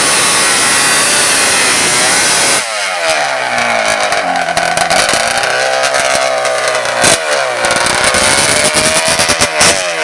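Racing ATV engine revving hard, its pitch rising and falling, with sharp pops scattered through the second half. The sound changes abruptly about two and a half seconds in.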